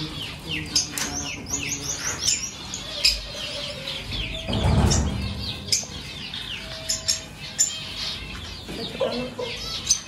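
A roomful of small cage birds chirping: many quick, high chirps that fall in pitch, overlapping and repeating. A brief rustling clatter comes just before the middle.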